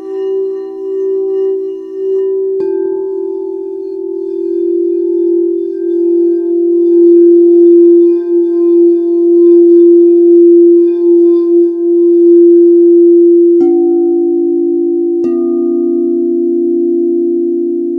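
Singing bowls ringing with long, wavering tones, struck three times: once about two and a half seconds in, and twice more near the end, each strike bringing in a new ring.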